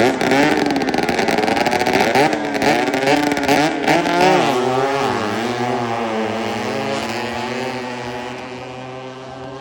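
Racing speedboat engine running loud, its pitch wavering up and down unevenly for the first half. It then settles to a steadier, lower note and fades away toward the end.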